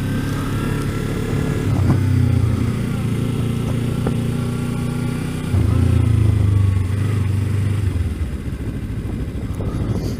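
Kawasaki Ninja 300's parallel-twin engine running at low revs while the bike is ridden slowly. It gets louder for a couple of seconds from about five and a half seconds in, then eases off again.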